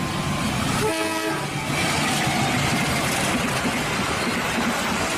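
Train sound: a steady running noise, with a brief horn blast about a second in.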